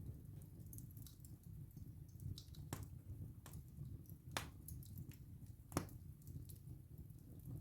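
Wood fire burning in a fireplace: a low steady rumble of flame under scattered sharp crackles and pops from the burning wood, the loudest pop about three-quarters of the way through.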